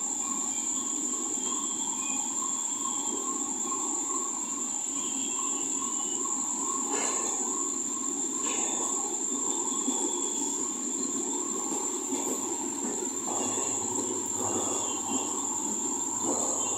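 LHB passenger coaches rolling past at speed, a steady rumble of wheels on rail with a couple of clacks over rail joints partway through. A steady high-pitched tone runs above it.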